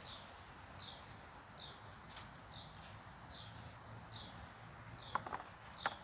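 A songbird repeating a short, high, falling note a little more than once a second. It is faint, and a couple of light knocks come near the end.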